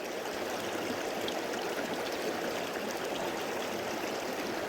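Steady rush of creek water flowing, an even noise with no pauses.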